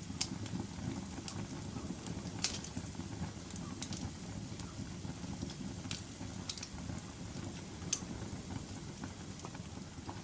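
Wood fire burning: a low steady rush of flames with sharp crackles and pops every second or so, the loudest about two and a half seconds in and again near eight seconds.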